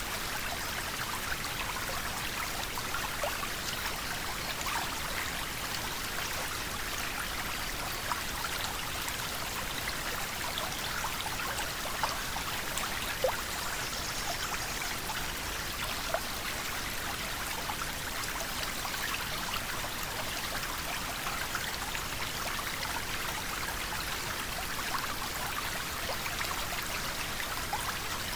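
River water flowing steadily over stones, with many small splashes and droplet plinks scattered through it.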